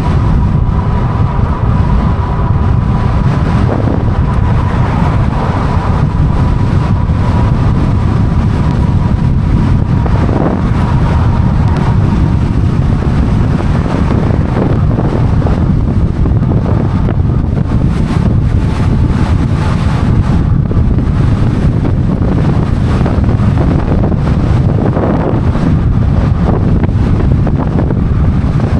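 Wind buffeting the microphone of a moving e-bike, a loud steady low rumble with ride noise under it. A faint steady whine sits above it and fades out roughly halfway through.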